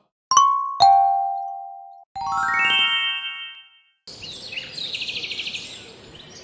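A two-note ding-dong chime, a high note then a lower one, each ringing out, followed by a quick rising run of chiming tones. Then birds chirping in a rapid trill over outdoor background noise.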